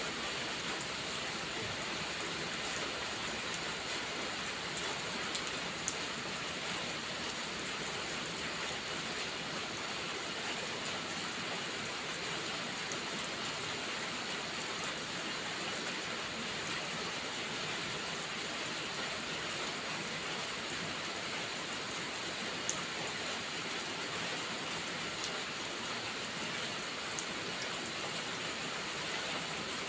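Steady rain falling, an even hiss with a few isolated sharp clicks.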